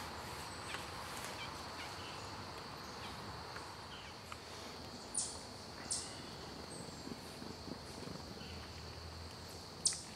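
Outdoor ambience of small songbirds at a woodland feeder: a steady high insect drone, with a few short, sharp chip notes, the loudest about five, six and ten seconds in.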